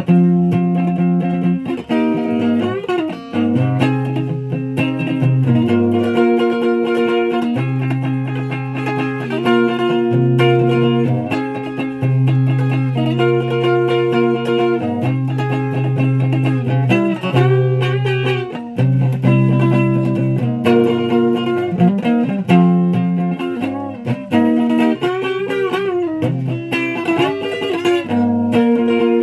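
Guitar music: sustained, held chords over a low bass line, with some notes bending in pitch.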